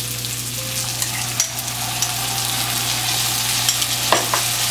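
Sliced bell peppers and onions sizzling in hot oil in a wok over high heat: a steady frying hiss, with a few light scrapes of a spoon stirring in the chili sauce.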